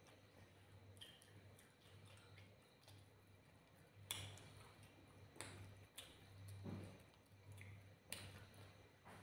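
Faint mouth sounds of someone eating chicken: a few sharp wet clicks and lip smacks while chewing, starting about four seconds in, over a low steady hum.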